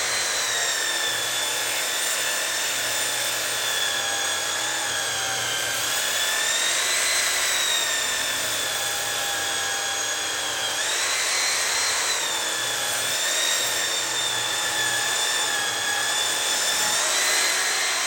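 Small electric sander running on cherry wood with a high whine whose pitch sags and recovers as it is pressed into the work. Near the end it is switched off and the whine falls away as it winds down.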